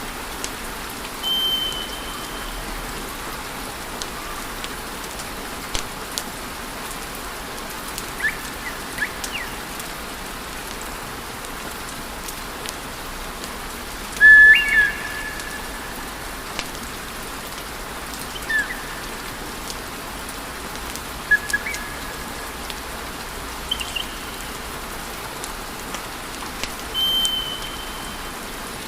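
Wood fire crackling: a steady hiss with scattered sharp pops, and several short whistling tones, the loudest about halfway through.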